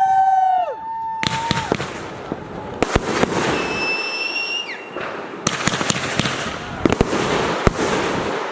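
Consumer fireworks going off: several shrill whistles sound together and cut off about a second in. Dense crackling and sharp pops follow, with another high whistle in the middle.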